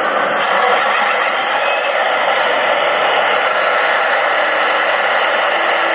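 Steady, loud rushing noise that starts abruptly and holds evenly throughout.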